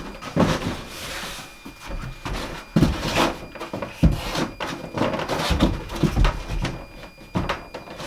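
A wooden interior wall board being offered up and pushed into place: irregular knocks and scrapes of wood against wood, with several sharp strikes.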